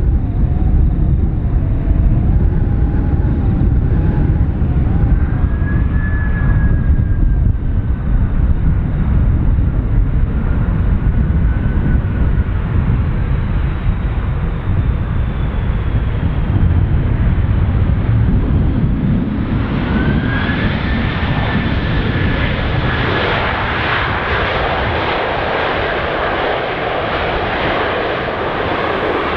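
Qantas Airbus A330-202 jet engines landing close by: a loud steady rumble with whining tones that glide in pitch. About twenty seconds in, a louder rushing sound with a rising whine sets in.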